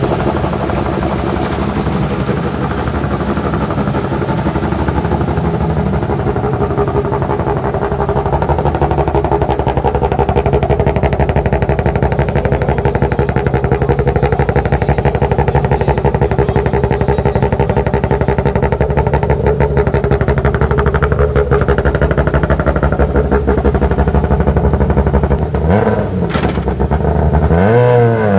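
Peugeot 207 S2000 rally car's naturally aspirated 2.0-litre four-cylinder engine running at a steady, rough idle with a fast pulsing exhaust beat. Near the end it revs in a couple of quick throttle blips that rise and fall.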